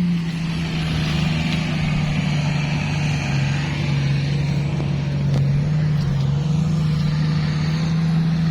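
A vehicle engine running steadily, its low drone dipping slightly in pitch partway through and then rising again.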